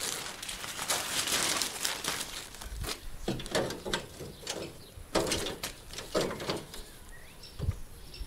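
Irregular clicks, taps and rustling from hands working on the loose front end of a VW Golf Mk2, with a few dull knocks.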